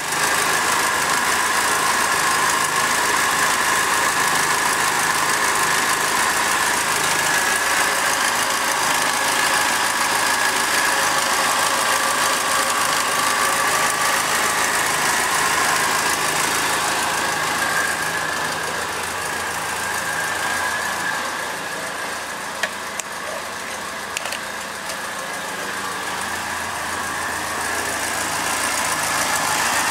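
Triumph Dolomite 1300 inline four-cylinder engine idling steadily while warming up on its first run after being fitted. A little quieter for a few seconds after the middle, with two brief ticks.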